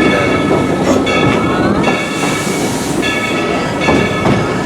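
Narrow-gauge passenger train rolling along with a steady rumble and clatter of wheels on track. Wheel flanges squeal in several short, high-pitched stretches that come and go, one gliding upward about a second and a half in.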